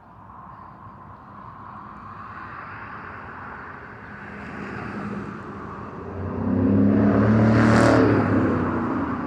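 A motor vehicle approaching and passing close by. Its engine and tyre noise grow steadily louder and are loudest about eight seconds in.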